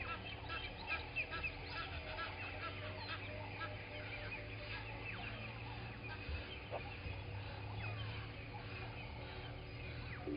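Many birds calling at once in a morning chorus, with runs of short repeated notes, busiest in the first couple of seconds, over a steady low hum.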